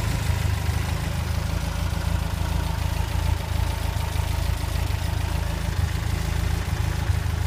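Lancia Stratos with a full-race 2.0-litre 8-valve engine, idling steadily.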